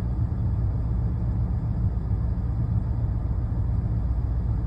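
Ford 7.5-liter 460 V8 idling steadily, heard from inside the cab as a low, even rumble, with the air-conditioning blower running.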